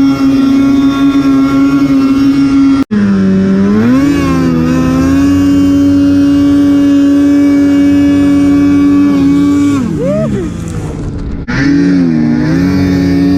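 Snowmobile engine running at high, steady revs, its note dipping and climbing back up several times as the throttle is eased and opened. The sound breaks off abruptly about three seconds in.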